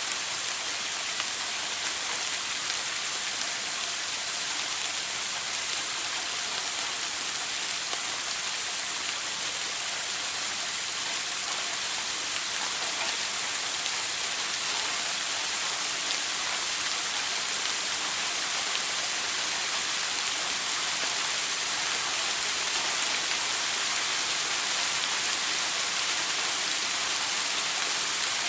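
Shower water spraying steadily onto a hard surface: an even hiss with fine patter of drops and no change in level.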